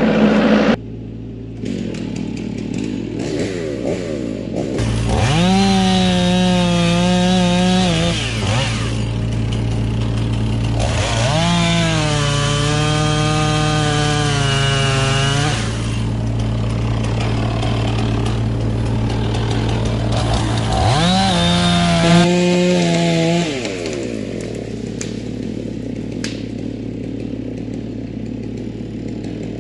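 Chainsaw run up to full throttle in three bursts of a few seconds each, its pitch rising quickly at the start of each, over a steady lower engine hum.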